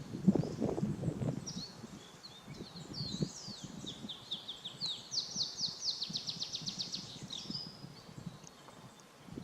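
Wild birds singing. About five seconds in, one bird gives a fast trill of quick falling notes lasting a second and a half, over a low irregular rustle that is loudest in the first second or so.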